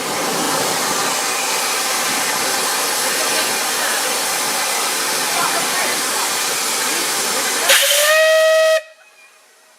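Steam locomotive letting off a steady, loud hiss of steam, then giving a short whistle blast near the end that slides up slightly in pitch and cuts off suddenly.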